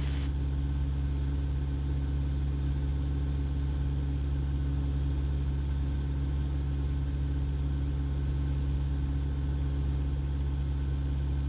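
Cessna 172 engine and propeller droning steadily in flight, a constant low hum heard through the cockpit intercom.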